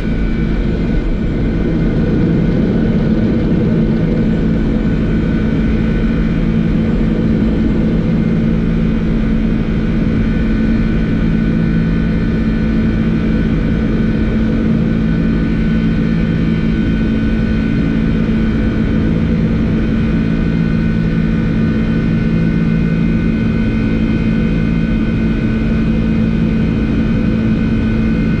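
Flight-deck noise of a Boeing 747-400 just after rotation, climbing at takeoff thrust: a loud, steady rush of airflow and engine noise with a low steady hum and a few fainter higher tones.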